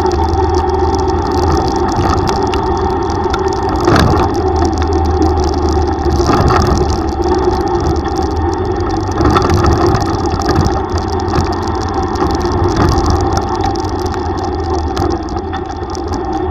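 Yamaha YTX125 tricycle's single-cylinder engine running under way, under a steady rushing noise, with a sharp knock about four seconds in.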